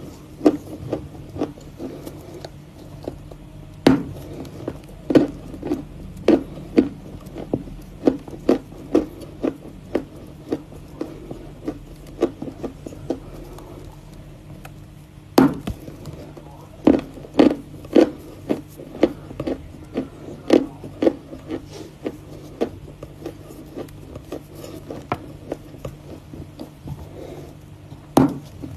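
Close-up chewing of crunchy Volokonovka chalk: irregular crisp crunches one or two a second, with a louder snap about 4 seconds in and another about halfway, each followed by a run of chewing crunches.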